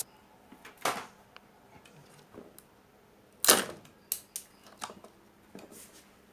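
A series of sharp clicks and knocks of small hard objects on a workbench, the loudest and longest about three and a half seconds in, as tools and parts are handled during circuit-board repair.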